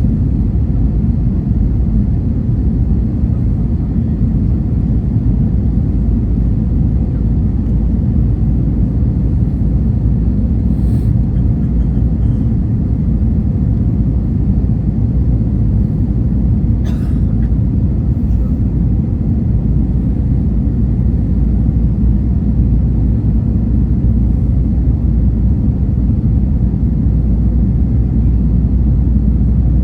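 Steady low rumble of an airliner heard from inside the cabin: engine and airflow noise with no change in level, broken twice near the middle by a faint, brief click.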